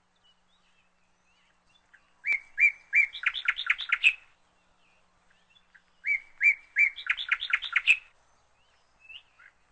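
A bird singing two phrases about four seconds apart. Each phrase opens with a few evenly spaced notes, then runs into a quick series of higher notes lasting about two seconds.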